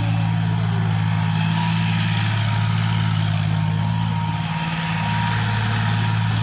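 John Deere tractor's diesel engine running steadily under throttle, dipping slightly for a moment about four and a half seconds in.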